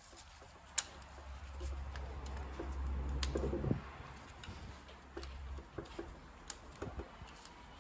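Scattered light clicks and knocks of hands and tools working a timing belt onto the pulleys of a 1.6 HDi diesel engine, with a brief creak about three and a half seconds in.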